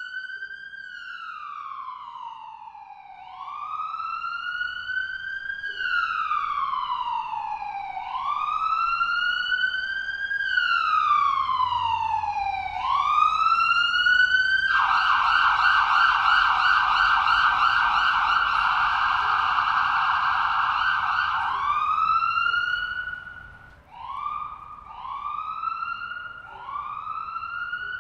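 Police car siren: a slow wail rising and falling every few seconds, switching about halfway through to a rapid yelp for several seconds, then to short quick rising whoops near the end.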